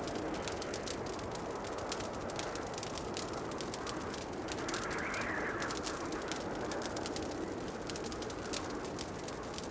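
Wood fire crackling in a fireplace, with dense small pops and snaps over a steady rushing hiss. The hiss swells briefly about halfway through.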